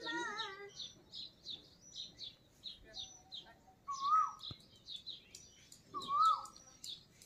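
Small birds chirping: a high, short chirp repeats about three times a second throughout, while a lower whistled call that rises and falls sounds twice, about four and six seconds in.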